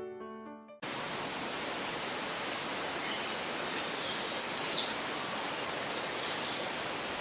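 Steady outdoor ambience: an even rushing hiss with a few faint bird chirps between about three and five seconds in. A piano tune fades out just before the ambience cuts in about a second in.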